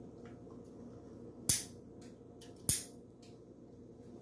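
Two sharp knocks about a second apart, each with a short ringing tail.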